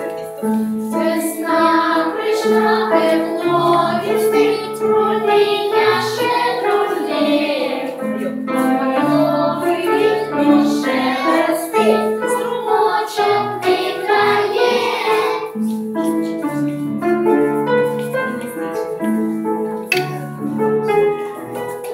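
Music: a song sung by children's voices over an instrumental accompaniment with a steady bass line.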